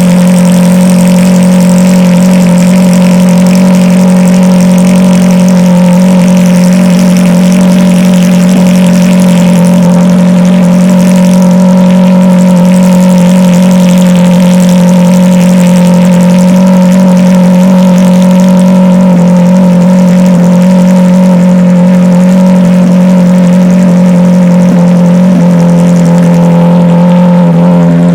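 Ferrari 458 Challenge's V8 engine held at a steady rev, one loud, constant engine note that neither rises nor falls.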